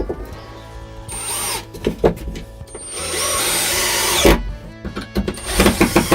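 A handheld power tool running in three short bursts, each with a thin high whine, over background music.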